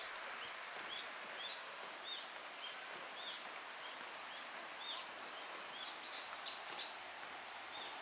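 Small birds chirping over steady outdoor background noise. The short, high calls repeat about every half second, with a few louder ones about six seconds in.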